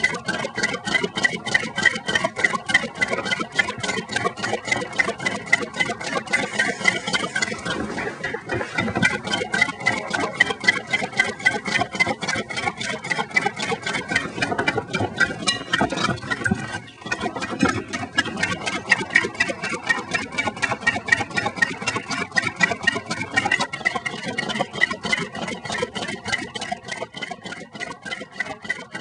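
An engine running steadily, with a rapid even clicking of about four clicks a second.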